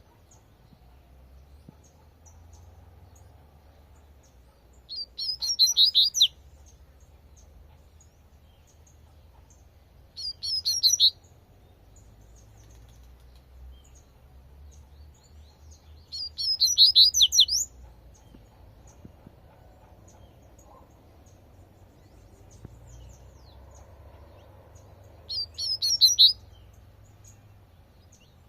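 Double-collared seedeater (coleirinho) singing its 'tui-tui' song. It gives four short phrases of rapid, high, sweet notes, each about a second long, separated by pauses of several seconds.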